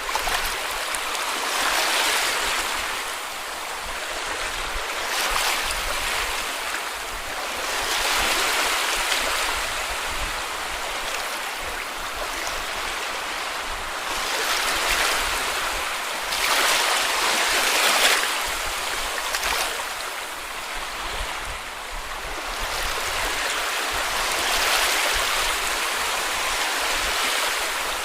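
Small sea waves washing onto a beach, each wash swelling and fading every few seconds over a steady hiss of surf.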